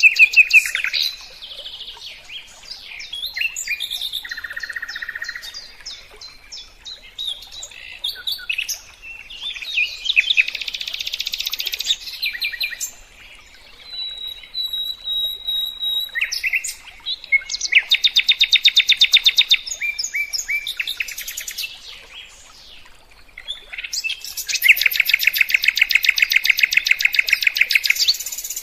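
A songbird singing a varied, rapid song: long fast trills of repeated notes, a thin held whistle around the middle, and mixed chattering phrases in between.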